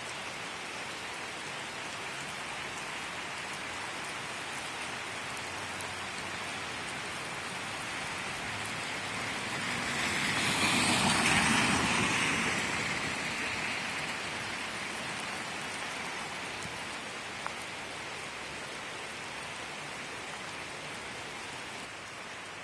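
Heavy rain falling on pavement and a wet street: a steady hiss that swells louder for a few seconds about halfway through, then settles back.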